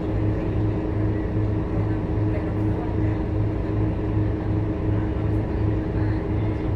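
Scania K230UB bus's diesel engine running at a steady speed, a continuous low drone that throbs evenly and never changes in pitch.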